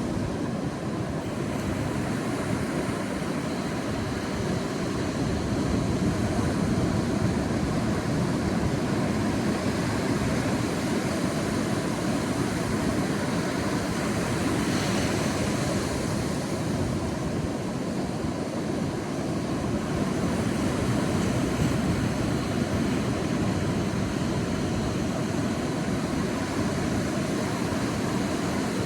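Sea waves breaking and washing on a beach: a steady rushing surf, with one wave's hissing wash swelling briefly about halfway through.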